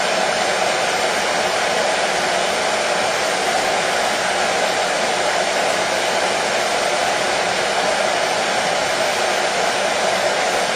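Hair dryer running steadily: an even rushing noise that does not change in pitch or level.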